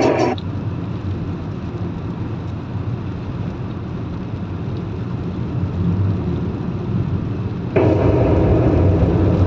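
Steady low road and engine rumble of a car driving, heard inside the cabin. Music from the car stereo stops just after the start and comes back in near the end.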